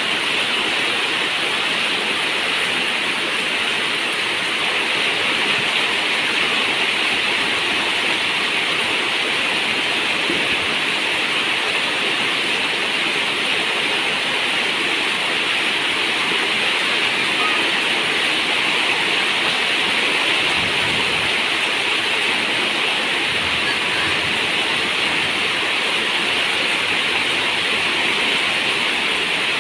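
Steady rain on a zinc roof mixed with running river water: an even, unbroken rushing hiss.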